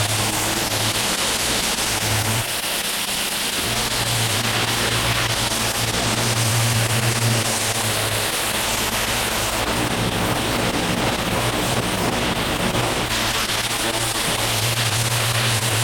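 Pressure washer running: an engine hum under the steady hiss of high-pressure water spraying onto the pavers. The hum fades briefly about two seconds in and again near the end.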